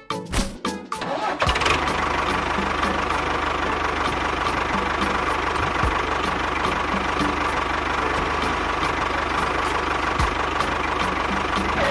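A small engine starts about a second and a half in, runs steadily and cuts off near the end.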